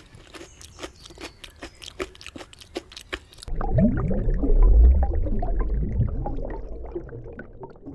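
An animal chewing: a run of quick, irregular crunching clicks. About three and a half seconds in it cuts to a loud low rumble with several overlapping low, bending animal calls, which fade toward the end.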